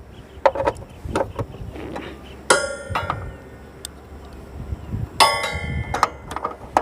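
Metal hand tools clicking and clanking as a 10 mm socket wrench loosens the bolts of a motorcycle chain cover, with two loud ringing metal clangs about two and a half and five seconds in.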